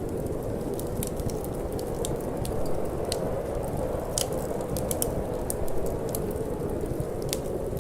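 Wood fire in a fireplace crackling, with irregular sharp pops and snaps, over a steady low rush of cold wind.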